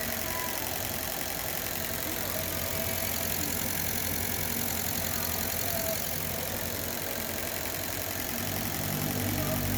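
Ford Ka 1.3 engine idling steadily while its repaired EEC V engine computer is tested. It grows a little louder near the end.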